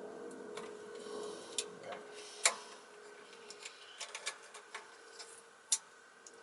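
Scattered light clicks and taps of small parts being handled as the carbon brushes are worked out of a vacuum cleaner motor, with two sharper clicks about two and a half seconds in and near the end, over a faint steady hum.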